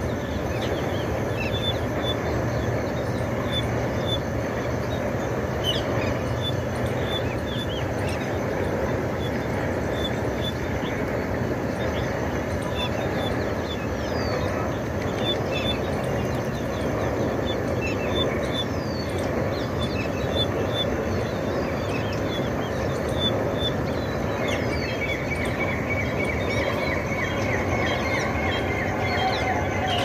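Birds chirping with short, high calls scattered throughout, and a fast run of repeated notes from about three-quarters of the way in, over a steady rushing background noise that is the loudest thing heard.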